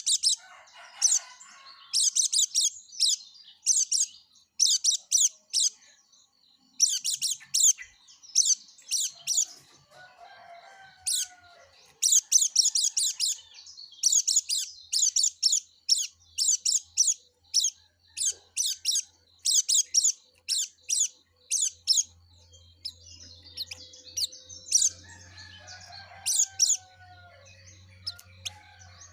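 Yellow-breasted white-eye (pleci) singing gacor, in full continuous song: fast bursts of high, thin chirping trills, about one a second, almost without pause.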